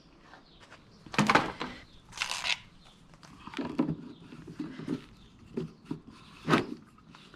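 Irregular knocks and clatters of objects being handled and set down, with a short hiss-like rustle about two seconds in and a sharp knock near the end.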